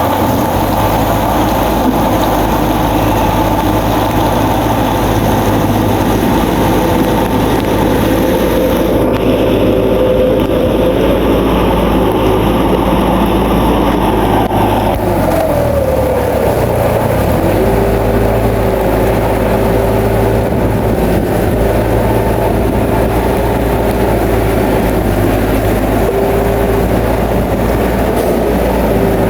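Bulldozer's diesel engine running steadily under load. Its note dips and changes about halfway through, then settles again at a steady pitch.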